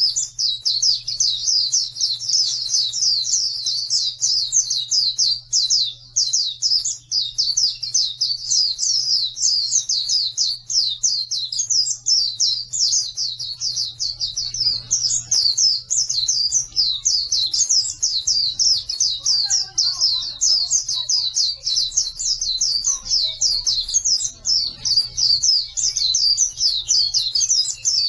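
Pleci (white-eye) singing a fast, unbroken chattering song of short, high, downward-sweeping notes, about five a second, over a low steady hum.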